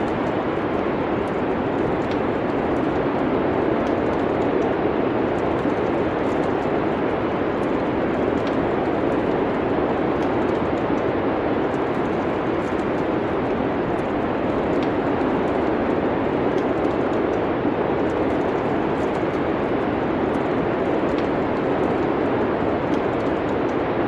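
Steady winter wind noise with faint, scattered crackles of a wood fire.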